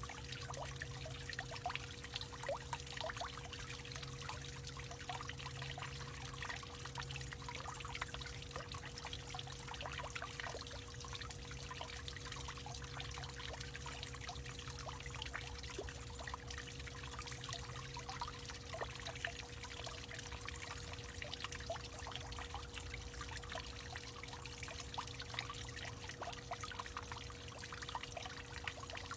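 Water trickling and pouring steadily, with many small splashes, over a faint steady hum.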